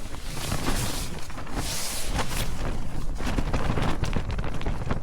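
Nylon bothy bag fabric flapping and rustling in high wind, a dense crackling rustle over a low rumble that swells about two seconds in.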